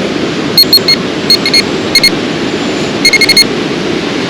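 Garrett Ace 250 metal detector giving short high beeps in bursts, a quick run of them about three seconds in, as it is swept over a buried metal target. Rushing water runs steadily underneath.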